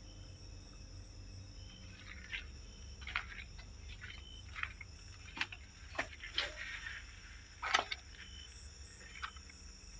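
Steady chirring of night insects, with a string of irregular short clicks and rustles from about two seconds in, the loudest a little before the end.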